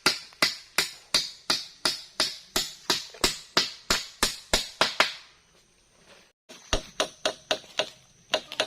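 Steady hammering on wood, about two to three blows a second. It pauses briefly a little past halfway, then starts again slightly faster.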